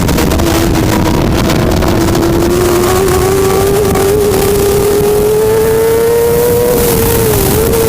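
Superbike racing motorcycle engine held at high revs, its pitch climbing slowly and dipping briefly near the end, over a heavy low rumble of wind.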